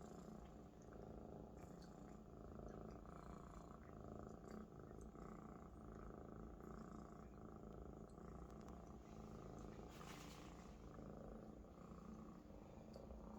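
Maine Coon kitten purring steadily and contentedly, with a short rustle about ten seconds in.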